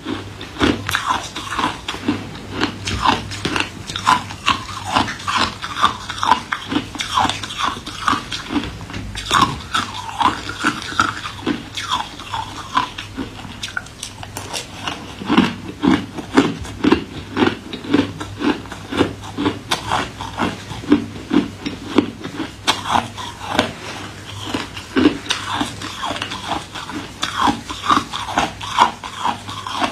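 A person biting and chewing ice, with a dense run of irregular crunches several times a second.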